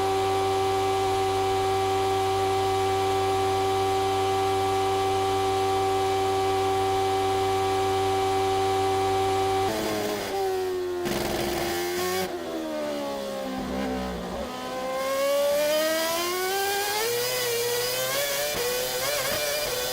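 Lotus Renault Formula 1 car's Renault 2.4-litre V8 engine, holding one steady high note for about ten seconds. The note then drops away and climbs back unevenly, wavering and sounding rough as the car comes off and back onto the throttle.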